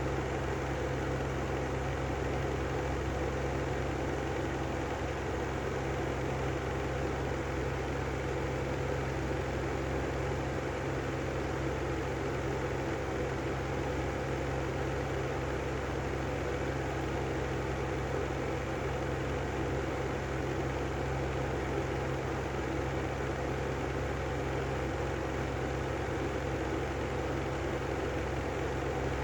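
Brand-new Lanson style 3 exhaust fan running steadily, a constant hum with noise from its bad bearings.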